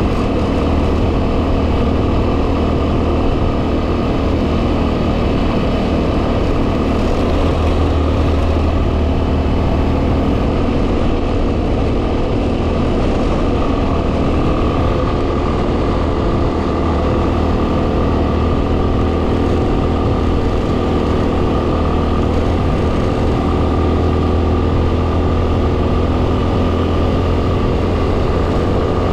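2010 Yamaha WR250R's single-cylinder four-stroke engine running at a steady cruise under way, with heavy wind noise buffeting the microphone.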